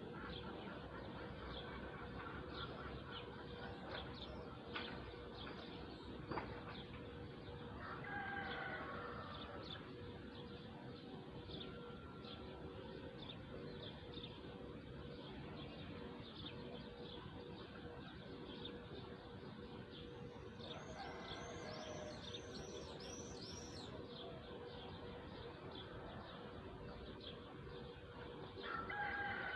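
Birds chirping and calling, with short high chirps repeating throughout and a quick run of higher rising notes about two-thirds of the way through.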